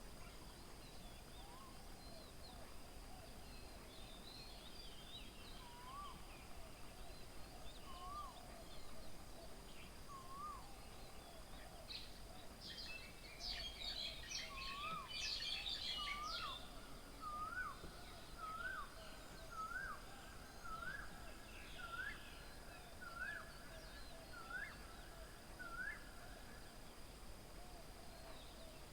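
Birds calling at a garden feeding table. An Asian koel gives a repeated rising call that gets faster and climbs in pitch over about twenty seconds. In the middle, a brief burst of loud chattering from other birds is the loudest sound.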